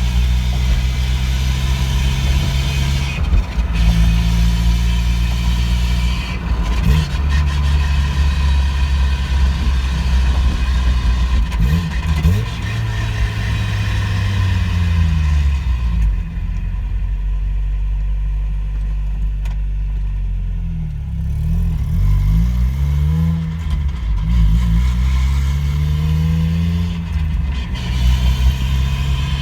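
NA Mazda Miata's four-cylinder engine and drivetrain on the move, the engine note falling and rising several times with changes in speed; the road noise drops away for a few seconds past the middle. The car carries a drivetrain noise that started after a differential change and was not cured by a new transmission.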